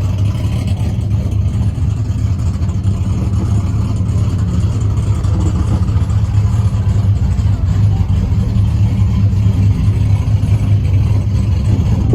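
A vehicle engine running steadily with a deep, low rumble and no revving.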